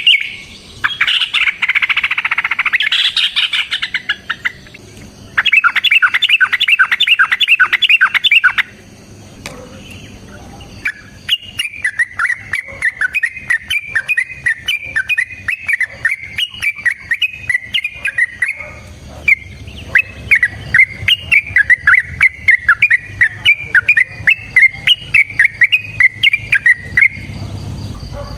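Yellow-vented bulbul singing loudly: two fast chattering phrases in the first eight seconds, a short pause, then a long run of quick, bubbly warbling notes with only a brief break in the middle.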